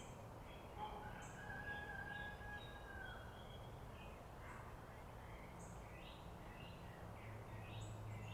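Faint ambient birdsong, many short chirps throughout, over a low steady machine hum that grows a little stronger near the end. A steady whine runs for about two seconds starting a second in.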